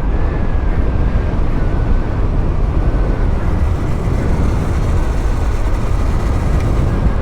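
Wind rush and tyre noise of a motorcycle coasting downhill at speed with its engine not driving it, buffeting the rider's microphone, with a faint steady high whine running through it.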